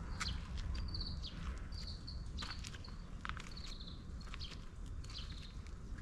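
Small birds chirping, short high calls repeated irregularly, over scattered footstep-like clicks and a steady low rumble.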